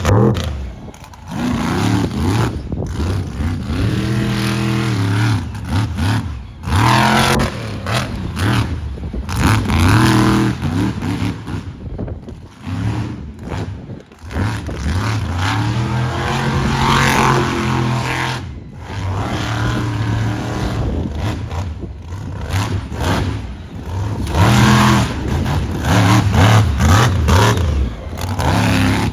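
Monster truck engine revving hard again and again, its pitch climbing and falling in surges, with brief drops as the throttle is let off.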